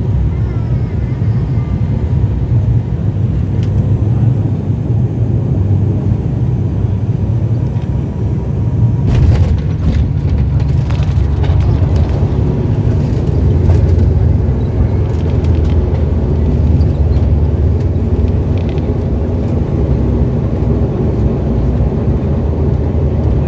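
Cabin noise of an ATR 72 twin-turboprop airliner: a steady low rumble, with a few knocks and rattles about nine to twelve seconds in.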